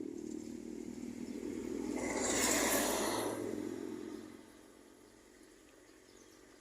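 A road vehicle passes close by: its engine and tyre noise swell to a peak about two and a half seconds in, then fade away.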